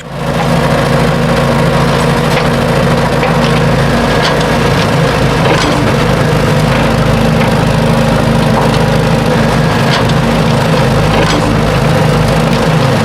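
A small electric motor in a DIY model starts up and runs with a steady hum, with scattered faint ticks over it.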